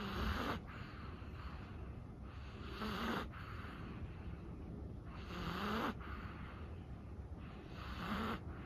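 A sleeping chihuahua snoring, a snoring breath about every two and a half to three seconds, four in all.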